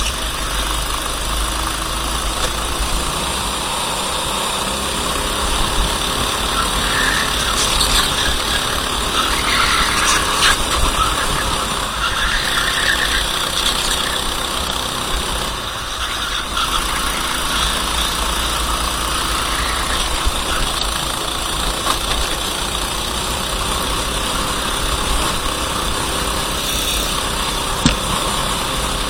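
Racing kart engine running flat out on board, its revs rising and falling through the corners, over a steady rushing noise.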